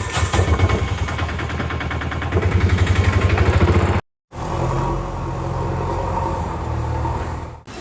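Heavy diesel engine sound, chugging in a fast pulsing rhythm, cut off abruptly about four seconds in and then starting again as a steadier running engine.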